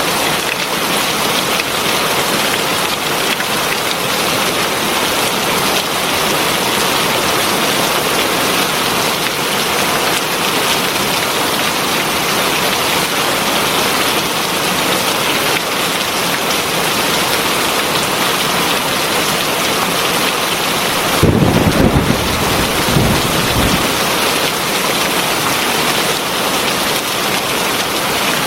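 Heavy rain falling steadily, with a brief low rumble of thunder about three quarters of the way through, coming in two swells, the loudest moment.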